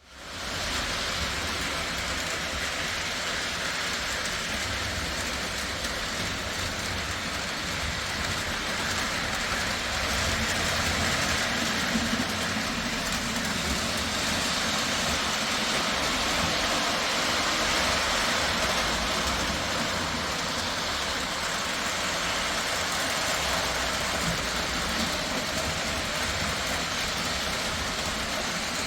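O gauge model train running steadily along the track: the rolling of wheels on three-rail track and the locomotive's motor, a continuous rumble and rattle with no clear beat.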